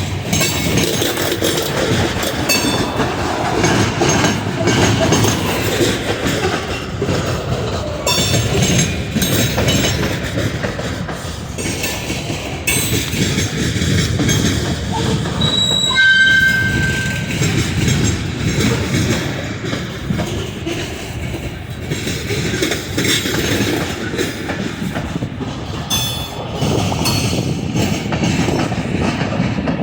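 Train cars rolling past, steel wheels clicking over rail joints, with a brief high wheel squeal about halfway through.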